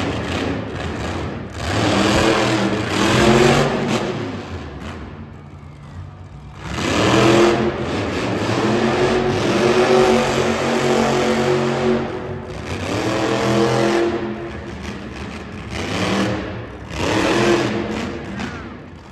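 Monster truck engine revving hard in repeated bursts of throttle, its pitch climbing and falling, with short lulls about four and twelve seconds in.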